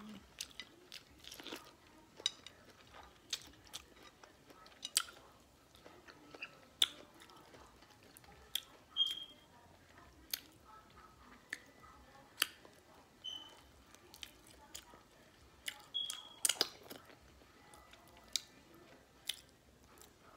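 Close-up chewing and biting of sweet corn on the cob, with many sharp, irregular wet mouth clicks and smacks.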